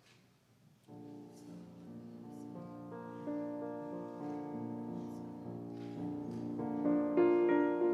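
Keyboard music: slow, held chords begin about a second in and grow louder toward the end.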